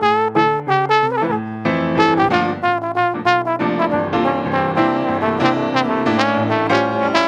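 Brass band playing a hymn arrangement: a melody of short, separated notes over lower held parts, thickening into a fuller, sustained chordal passage about halfway through.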